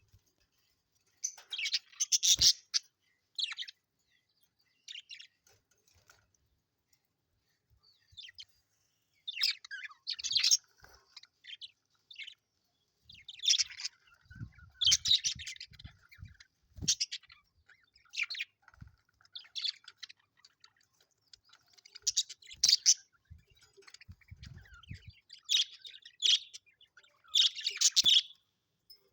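Budgerigars chirping and chattering in short, scattered bursts with brief pauses between.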